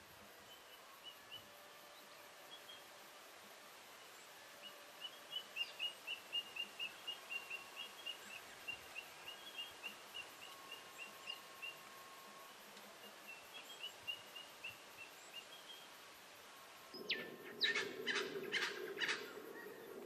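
Wild birds calling: a rapid series of short, high chirps, about two or three a second, runs for roughly ten seconds. Near the end the background changes and a few louder, harsher sounds come in.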